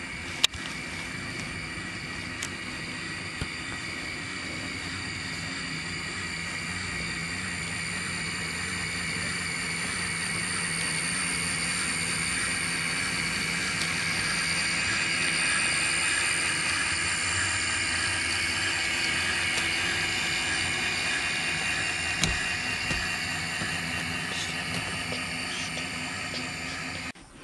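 HO scale model train running on the layout's track, its motor giving a steady whine over rolling wheel noise, with a few sharp clicks. It grows louder to a peak about halfway through, then slowly fades, and stops abruptly near the end.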